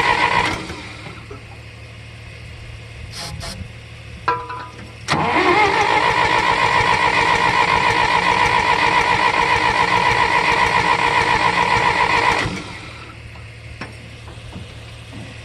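The gasoline engine of a 1964 John Deere 1010 tractor is cranked by its starter without catching. A burst of cranking stops about half a second in. After a pause with a few clicks, the starter spins up again at about five seconds and cranks steadily with a fast pulsing for some seven seconds, then stops. This is a cold start with the choke not yet set right.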